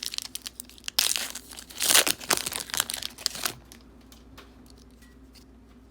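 The wrapper of a 2015 Score football card pack being torn open and crinkled, with a dense run of sharp crackles that stops about three and a half seconds in. Faint scattered ticks follow.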